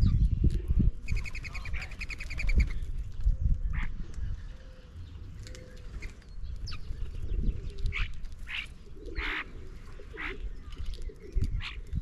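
Backyard feeder birds calling: a fast rattling chatter a little over a second in, then scattered short, sharp calls and chirps, over a low rumble.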